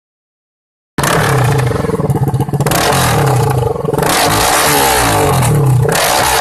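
Bajaj Pulsar NS200's single-cylinder engine through a loud aftermarket exhaust, revved hard about three times, the pitch climbing and dropping back between throttle blips. It starts abruptly about a second in.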